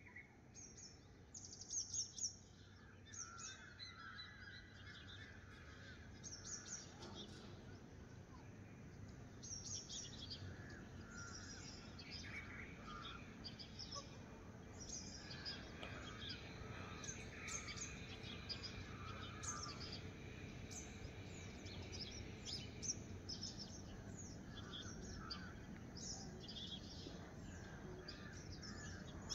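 Several birds chirping and calling, many short high chirps and a few lower warbling phrases overlapping, over a faint steady low background noise.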